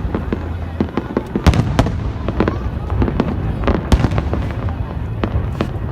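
Fireworks going off in a continuous barrage: many sharp, irregular bangs and crackles, several each second.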